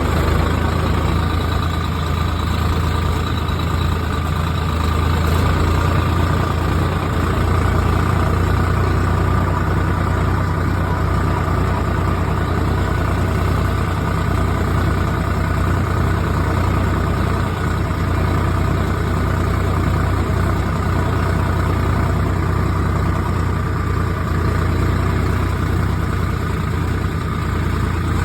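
A motor vehicle's engine running steadily with a low, even hum that does not change.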